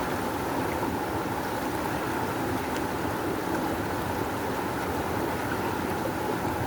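Rushing river water flowing steadily, a constant roar of current.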